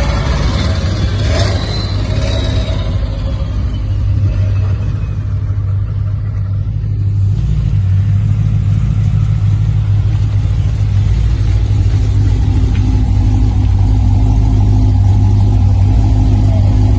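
Car engine running close by with a steady deep drone, growing a little louder about halfway through.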